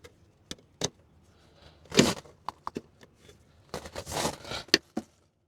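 Hands working an LED headlight bulb into its plastic headlight housing: scattered small clicks and rustles, with two louder short noisy bursts about two and four seconds in. The sound cuts off abruptly near the end.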